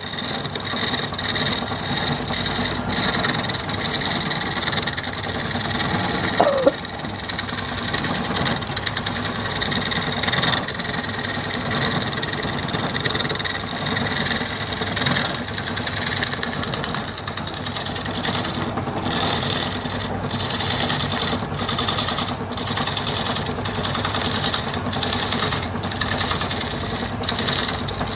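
Wood lathe running with a turning tool cutting the spinning wood: a steady scraping noise over the motor, with a short squeak about six seconds in. In the later part the cutting noise briefly lets up again and again.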